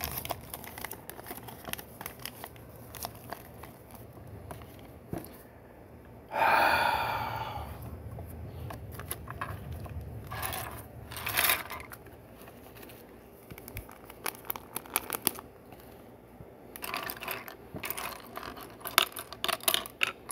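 Small plastic Lego pieces clicking and clattering as they are sorted and handled, with a louder burst of crinkling plastic, like a parts bag being torn or handled, about six seconds in, and a quick run of clicks near the end.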